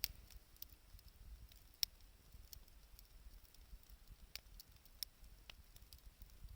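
Wood campfire crackling faintly, with scattered sharp pops and ticks at irregular intervals, the loudest about two seconds in.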